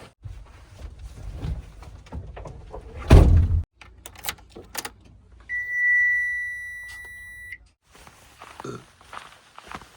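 Low machinery rumble ending in a heavy thud, then two sharp clicks and a single steady high-pitched beep lasting about two seconds that cuts off abruptly.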